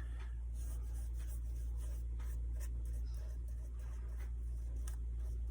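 Paintbrush strokes applying paint to a small wooden block, soft irregular brushing several times a second, over a steady low hum.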